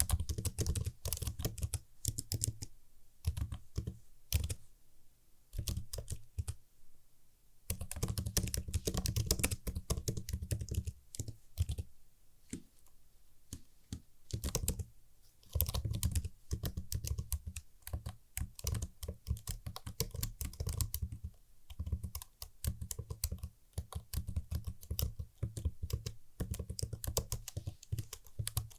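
Typing on a mechanical computer keyboard: dense runs of crisp keystrokes in bursts, broken by short pauses.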